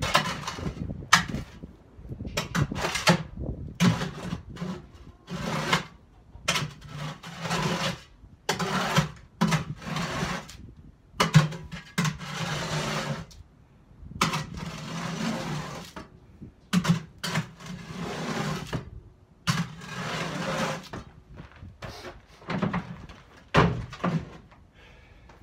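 Irregular knocks and scrapes of hand work, a few of them drawn out for a second or more.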